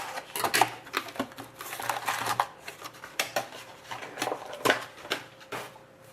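Hockey card packs and boxes being handled and opened: irregular wrapper crinkling and rustling with sharp clicks of cards and cardboard.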